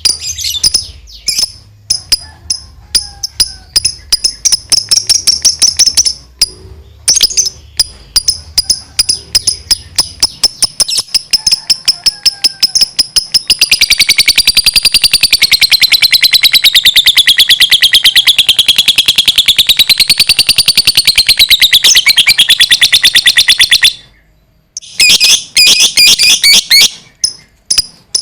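Lovebird singing high, rapid repeated chirps. About halfway through, these run into a long unbroken chattering trill (ngekek panjang) that wavers up and down in pitch for some ten seconds. The trill then stops and short rapid bursts follow near the end.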